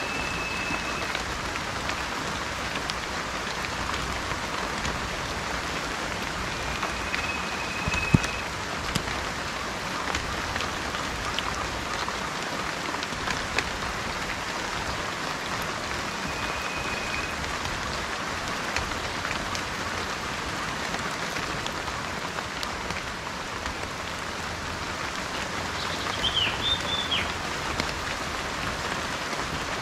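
Steady rain falling, with a few short single-pitch bird whistles and a brief chirping bird call near the end.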